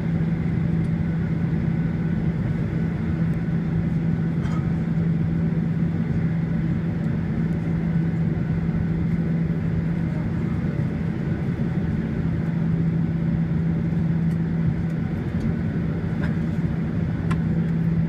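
Steady cabin noise of a Boeing 737-800 on the ground after landing: an even low hum with rumble beneath it, and a few faint clicks.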